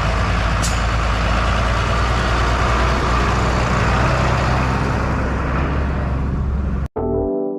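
Tractor engine running steadily and loudly, cut off abruptly near the end by ambient background music.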